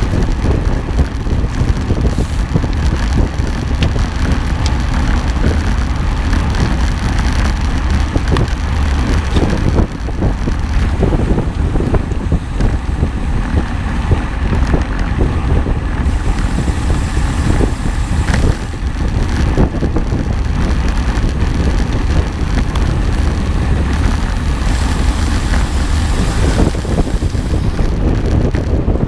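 Loud, continuous wind buffeting on the microphone over a deep rumble, with many small knocks and rattles running through it.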